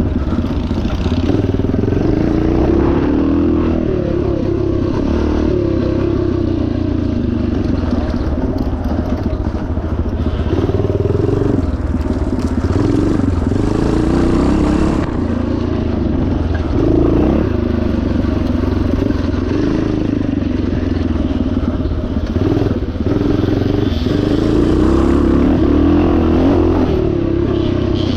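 1977 Yamaha TT500's single-cylinder four-stroke engine running hard under constant throttle changes, its pitch rising and falling again and again.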